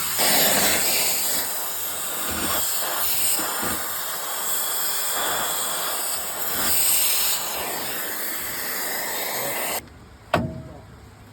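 Loud steady hissing that swells twice, then cuts off suddenly near the end, followed by a single sharp knock.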